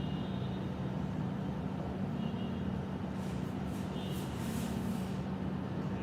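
Steady low background rumble with a constant hum, and faint soft hissing about three to five seconds in; no speech.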